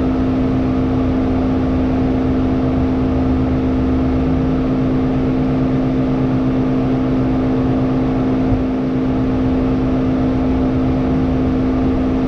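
Hyundai Elantra N's turbocharged 2.0-litre four-cylinder running steadily at low revs, a constant hum with no revving.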